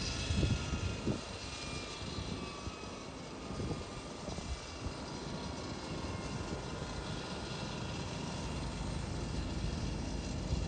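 Airliner engines with a whine that slowly falls in pitch as the aircraft passes, over a steady rushing noise, with gusts of wind buffeting the microphone near the start and again around four seconds in.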